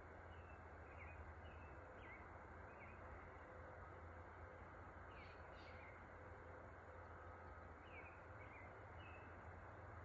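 Faint outdoor ambience with scattered short, high bird chirps, coming in small groups, over a steady low hiss.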